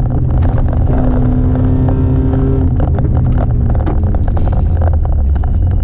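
Mercedes-Benz C180 W202 rally car's four-cylinder petrol engine under load at speed, heard from inside the cabin. The engine note holds steady for about the first three seconds, then breaks up amid rougher road noise.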